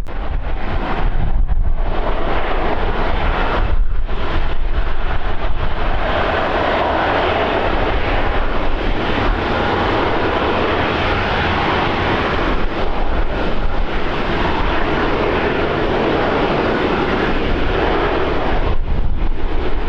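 Passenger aircraft passing by, its engine noise swelling about a quarter of the way in, holding for several seconds, then fading near the end. Wind buffets the microphone throughout.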